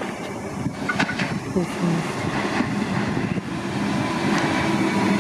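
Comeng electric suburban train running along the track, growing steadily louder as it approaches, with a few sharp clicks about a second in and a steady hum building near the end.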